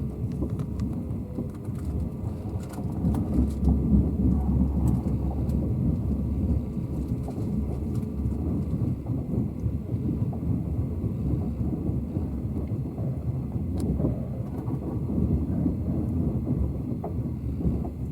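Passenger train running on the track: a steady low rumble with scattered light clicks and rattles.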